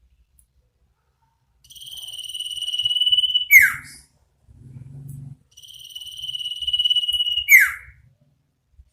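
Common iora (sirtu) giving its drawn-out 'ngetir' whistle twice. Each call is a long note held on one high pitch that swells over about two seconds, then drops away in a quick falling slur.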